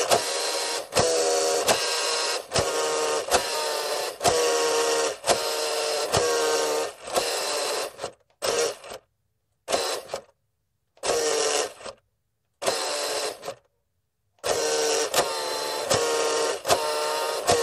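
Small electric motor of a remote-controlled toy fire truck, upside down, spinning its wheels in on-off runs: a bright buzzing whine that starts with a click each time. The runs last about a second each, with brief pauses between them. In the middle they are shorter and separated by silences, and longer runs come back near the end.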